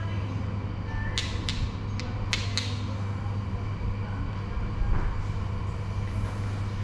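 Steady low electric hum with a run of five short, sharp clicks between about one and three seconds in.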